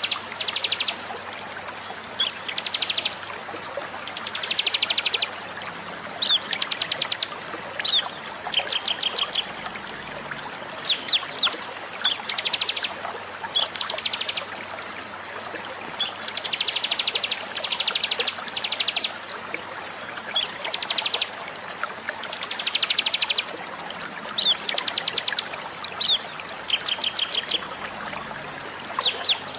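Songbird song recording used as a masteran, a track for caged songbirds to learn from. Rapid high trills about a second long alternate with short sharp whistled notes, the phrases repeating over and over against a steady background hiss.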